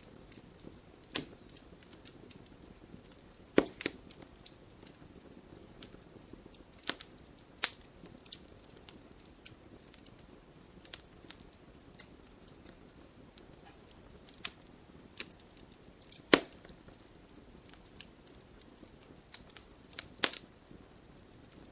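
Wood fire crackling in a fireplace: irregular sharp pops and snaps over a soft, steady hiss. The loudest pops come about four seconds in and again about sixteen seconds in.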